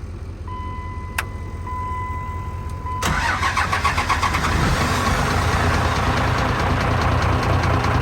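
Turbo diesel pickup engine being started on a jump: it cranks with a steady whine, catches about three seconds in, and settles into a loud, even diesel run. It is the engine coming back to life after the truck has sat.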